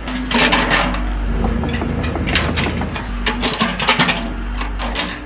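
1/16-scale RC excavator digging: a steady motor hum under repeated bursts of scraping and rattling as its bucket works through rocky soil, the longest burst about half a second in and others around two and a half and four seconds in.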